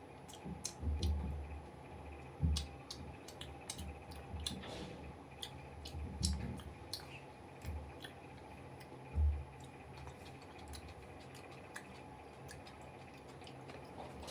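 A person eating grilled chicken: wet chewing with many small sharp mouth clicks and smacks, and several dull low thumps in the first ten seconds.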